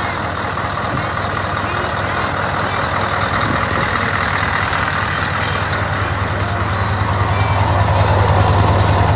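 Scania 164 truck's V8 diesel engine running steadily with a deep hum, slowly growing louder.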